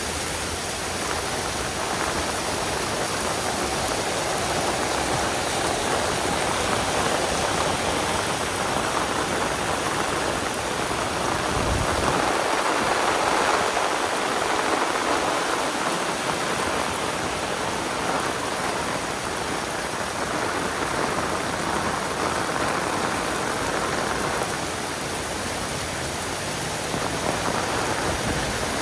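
Heavy rain pouring down steadily, a dense even hiss of drops on surfaces that swells slightly midway.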